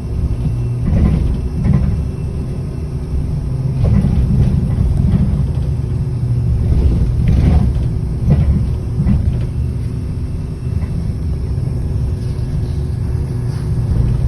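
City bus on the move, heard from on board: a steady low engine and road rumble with a faint steady hum, and scattered short knocks and rattles.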